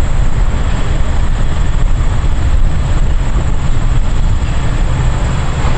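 Loud, steady rumbling road-traffic noise, heaviest in the low end.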